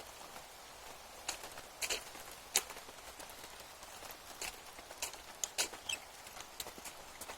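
Rain dripping: irregular sharp taps and ticks of falling drops over a faint steady hiss of rain.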